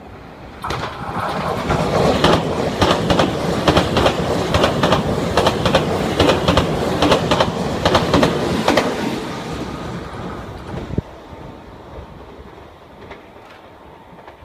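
Meitetsu electric train running through the station at speed, its wheels hammering over the rail joints in a loud, rapid clatter that starts about a second in and fades after about nine seconds. A single sharp knock comes near eleven seconds.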